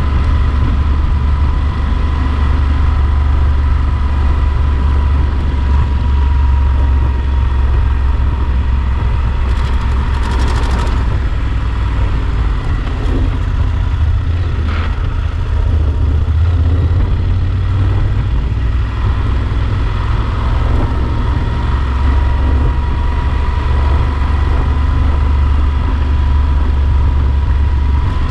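Yamaha Super Ténéré XT1200's parallel-twin engine running steadily, a constant low rumble with a faint steady whine over it. Two short hissing bursts come about ten and fifteen seconds in.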